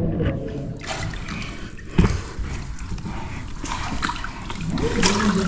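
Water splashing and sloshing, with one sharp thump about two seconds in and a voice near the end.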